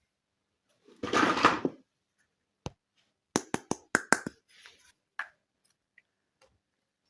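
Small plastic toy kitchen pieces being handled: a short rustle about a second in, then a quick run of about six sharp plastic clicks and taps, with a few fainter ones after.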